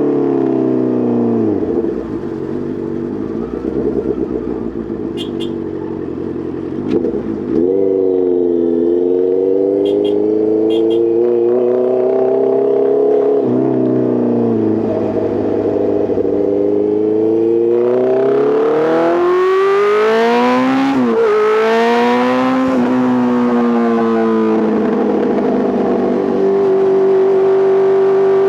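Honda CBR650R's inline-four engine through an Arrow Race Pro titanium full exhaust while riding: the revs drop away and pick up again several times, then climb hard through the gears about two-thirds in before settling to a steady cruise. A few faint sharp clicks while the throttle is off early on.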